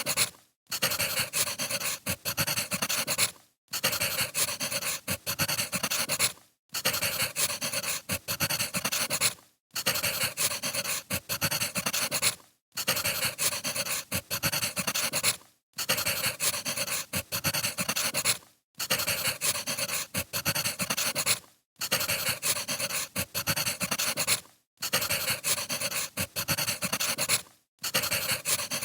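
Firewood crackling and popping as it burns, a short recording looped so that it drops out briefly about every three seconds.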